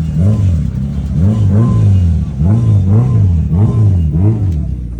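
Car engine revved in quick repeated blips, its pitch rising and falling two or three times a second in short bursts.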